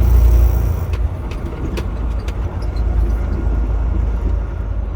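Semi truck's engine and road noise heard inside the cab: a steady low rumble, with a few faint clicks between one and two and a half seconds in.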